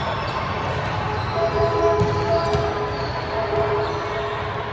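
Volleyball being hit and bouncing on a hard gym floor, with sharp impacts (the clearest about two seconds in) over the echoing low rumble of players and people in a large indoor hall.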